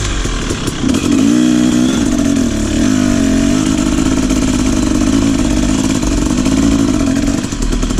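Trail motorcycle engine running and being revved after water got into its carburetor and airbox; the revs climb about a second in, then hold at an uneven, wavering speed as it keeps running despite the water.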